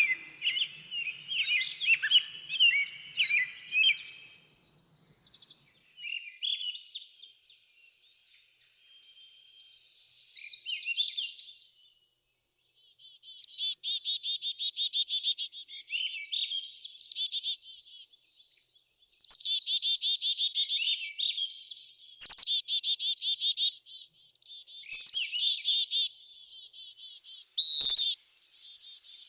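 Songbirds calling and singing: a flurry of quick chirps at first, then a series of fast trills, some overlapping, separated by short lulls.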